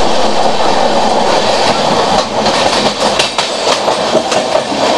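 Two passenger trains passing each other on adjacent tracks: a loud, steady rumble and rattle of wheels and coaches, with scattered clicks of wheels over rail joints.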